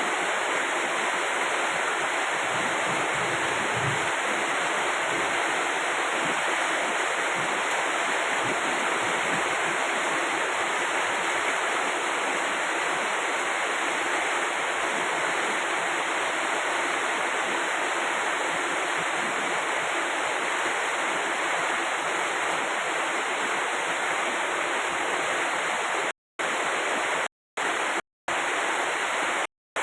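Steady rain falling, an even unbroken hiss. Near the end the sound cuts out to silence several times for a moment.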